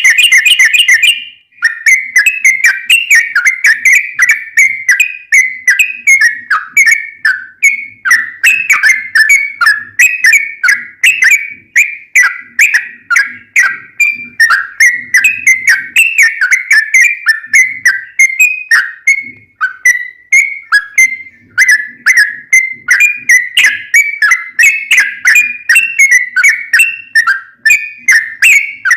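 Sooty-headed bulbul (trucukan) singing a long, rapid, unbroken run of quick whistled notes, the continuous 'ropel' style of song, after a brief pause near the start.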